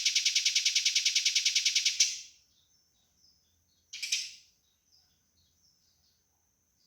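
Eurasian tree sparrow giving agitated fighting calls. A fast, harsh rattling chatter of about ten notes a second stops about two seconds in. A short harsh burst comes about four seconds in, with faint chirps between.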